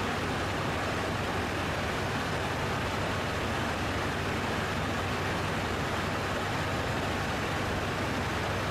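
Steady, unchanging rushing noise of an aircraft in flight, with a faint low hum beneath it.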